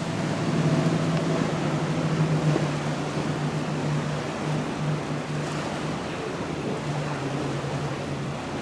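A powerboat's engines droning steadily as it passes, over wind and the wash of water. The drone is loudest in the first couple of seconds, then slowly eases off.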